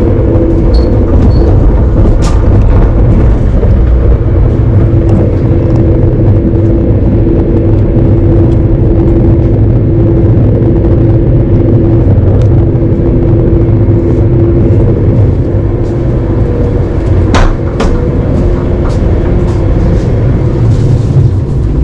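Passenger train running steadily, heard from inside the carriage: a loud low rumble with a steady hum on top. A couple of sharp clicks come near the end.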